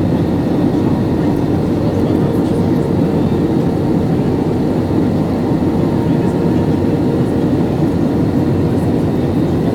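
Passenger airliner landing, heard as a steady, loud rumble of engine and airflow noise with a few faint steady tones over it.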